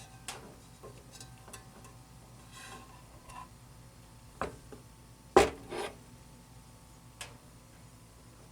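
Irregular clicks and knocks from a turntable's plastic and metal parts being handled, with one louder knock a little past the middle.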